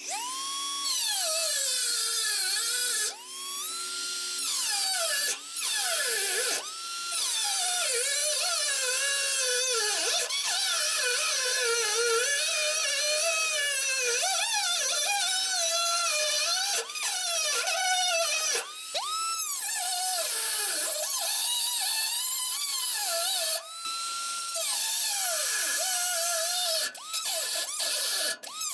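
Small cutoff wheel cutting the head off a rusted, stripped bolt. The tool's whine sags in pitch as the wheel bites into the steel and climbs back when it is eased off, with a hiss of grinding. The tool stops and restarts several times.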